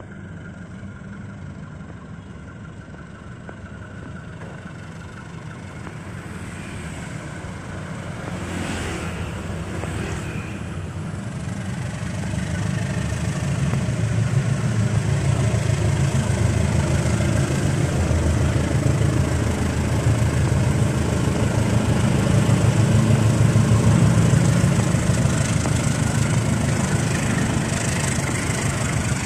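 Diesel-electric passenger locomotive approaching with its engine running, growing steadily louder as it nears and passes, then its passenger coaches rolling by.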